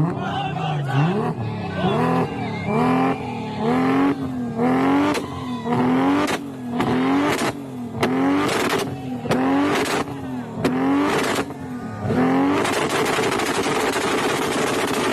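Turbocharged Nissan Skyline RB26 straight-six revved in quick repeated blips, its pitch rising and falling about twice a second, with sharp pops between the revs. Near the end the revs give way to a few seconds of steady rushing noise.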